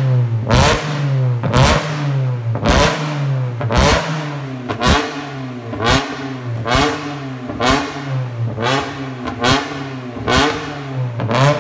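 Honda S2000's four-cylinder engine being blipped through a home-built exhaust with new headers: about a dozen quick revs, roughly one a second, each snapping up and falling back toward idle.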